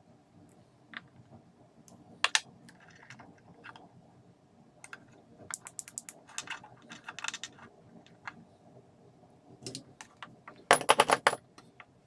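Clicks, taps and small rattles of hard plastic and metal parts being handled while a Makita ML807 lantern work light is worked on, with a loud run of rapid clicks near the end.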